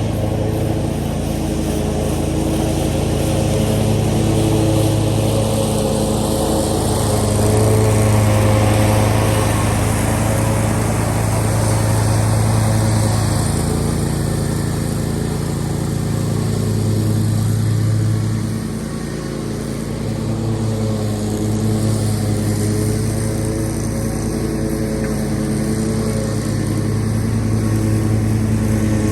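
Zero-turn lawn mower engine running steadily at mowing speed, its level swelling and easing slightly, with a brief drop a little past halfway.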